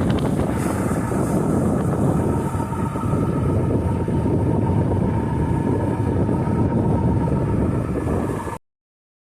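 Sailboat under way: a steady low rumble with wind buffeting the microphone and a faint steady whine, cutting off suddenly near the end.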